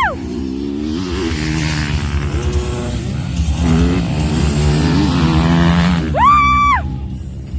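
Motocross dirt bike engines running on the track, their pitch rising and falling as the throttle is worked. About six seconds in, a short high-pitched steady tone sounds for under a second, gliding up at its start and down at its end.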